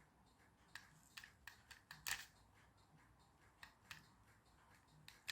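Faint, scattered clicks and taps of a small plastic toy car being handled, about eight in all with the loudest about two seconds in, over near silence.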